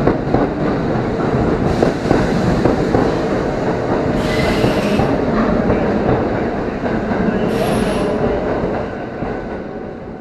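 Kintetsu limited express train passing close by at speed, a loud steady rumble of wheels and running gear, with three brief higher-pitched flares a few seconds apart. The noise fades away near the end as the last car passes.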